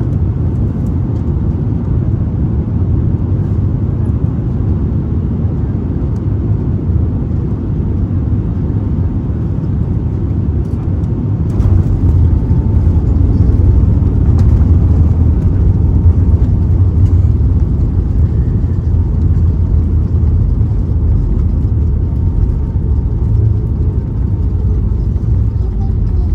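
Airliner cabin noise during the landing: a steady low rumble of the jet's engines and airflow. It grows louder for about five seconds a little before halfway, then eases back.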